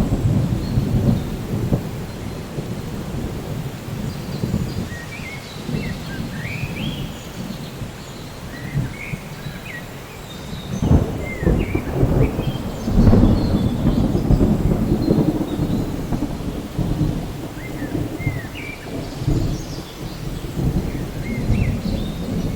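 Steady rain with rolling thunder, the rumble swelling to its loudest about eleven seconds in and easing off after. Short high chirps, likely birds, sound now and then over it.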